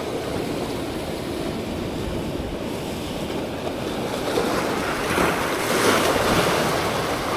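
Sea waves washing in, with wind buffeting the microphone; a bigger wave swells up about five seconds in and fades.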